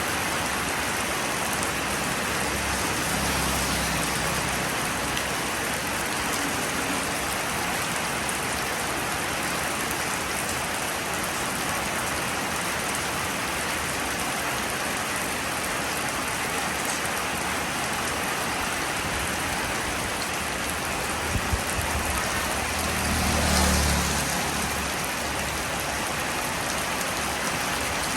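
Steady rain falling and pattering on surfaces, an even hiss. A couple of sharp drips sound about three-quarters of the way through, followed by a short low rumble that swells and fades.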